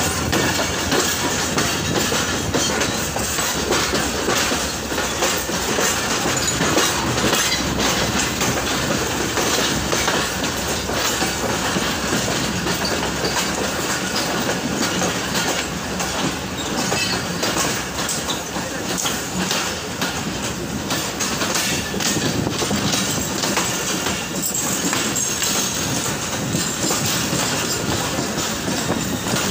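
A passenger train running on the track, its wheels clattering steadily over the rail joints. A thin, high wheel squeal creeps in near the end.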